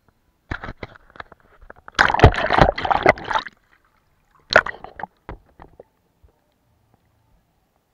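Water sloshing and splashing in a jar, as when a paintbrush is swished clean, with a few sharp taps before and after: the loudest splashing lasts about a second and a half from about two seconds in, with a shorter burst near the five-second mark.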